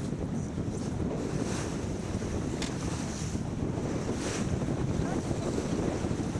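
Wind buffeting the microphone over the rush of water along a sailboat's hull as it sails, with a few brief hissing splashes.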